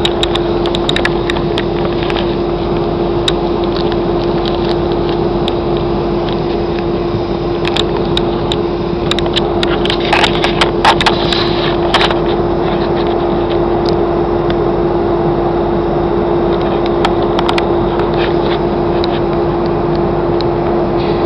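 Airliner cabin noise in flight: a steady engine and airflow roar with a constant hum. A cluster of clicks and rattles comes about ten to twelve seconds in.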